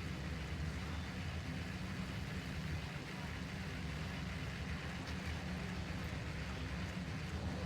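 Steady low rumble of vehicle noise, with a fainter hiss above it and no distinct events.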